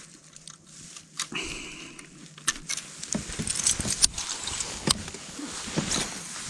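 Fishing tackle being handled for a cast with a spinning reel and a triple-hooked glide bait: scattered light metallic clicks and rattles, with a short whir a little over a second in.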